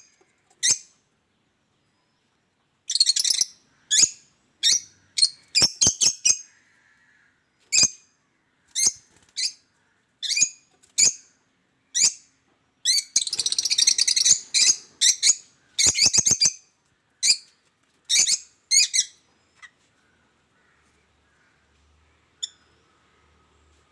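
Small pet birds calling: a run of short, sharp chirps and squawks, busiest about halfway through, then dying away for the last few seconds.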